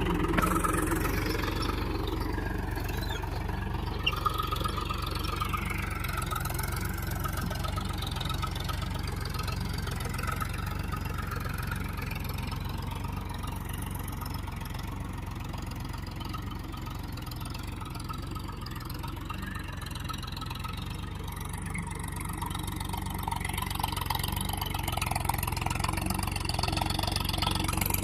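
Powertrac Euro 50 tractor's diesel engine running steadily while ploughing, fading somewhat through the middle and growing louder again toward the end.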